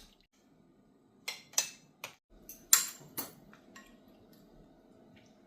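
Utensils clinking against bowls and dishes: a series of about seven sharp clicks, the loudest about three seconds in. A faint steady hum comes in a little over two seconds in.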